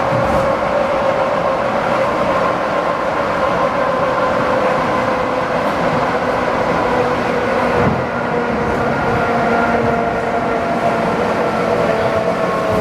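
ED4M electric multiple unit running at speed, heard on board: a steady rumble of wheels on rail under a whine of several tones from its traction motors and gearing, which drifts slowly in pitch.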